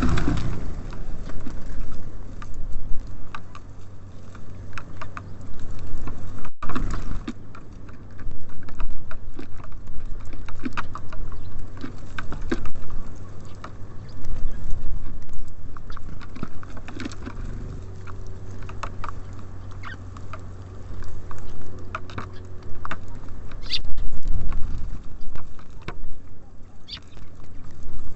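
Small birds (tits and sparrows) feeding at a close-miked bird feeder: irregular quick pecking taps, scratches and seed rustling, over a steady low rumble.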